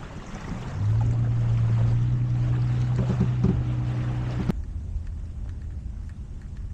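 A small electric pump motor on a boat hums steadily, starting about a second in and cutting off suddenly a few seconds later, over wind and water noise. It is pumping out water standing in the boat, which the owner says is coming from the live well.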